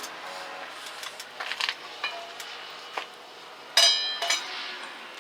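Metal cookware and utensils clinking and clattering as food is set up for grilling, with one loud ringing metal clink a little under four seconds in.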